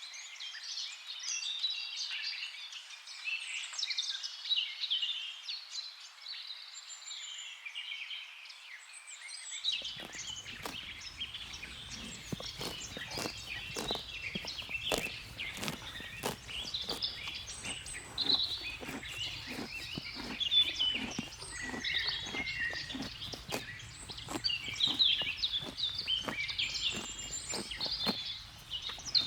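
Several birds chirping and calling over one another. About ten seconds in, the sound changes: frequent sharp clicks and a low rumble join the birdsong.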